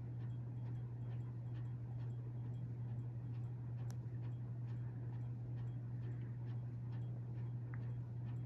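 Hampton Bay Carousel ceiling fan (CEI) running, with a steady motor hum and a light, regular ticking a few times a second.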